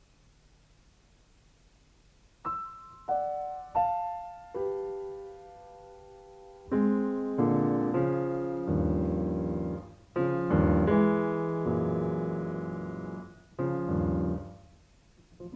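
Solo piano: after a silent pause of about two and a half seconds, a few single notes step downward in pitch, then full, sustained chords ring and die away.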